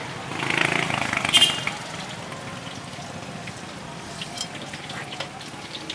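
Pempek fish cakes frying in hot oil: a steady sizzle with small scattered pops. A louder scrape and a sharp clink come in the first second and a half.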